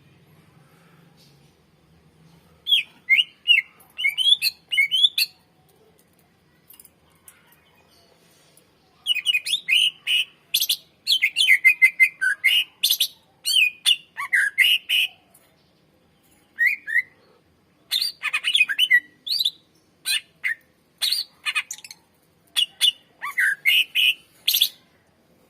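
A cucak ijo (green leafbird) singing loudly in bursts of rapid, varied chirps and whistles, with short pauses between phrases.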